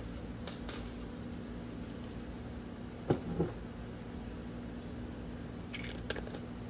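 Close-miked eating sounds: a short wet squish of food in the mouth about three seconds in, followed by a smaller one, and a few faint clicks near the end, over a steady low hum.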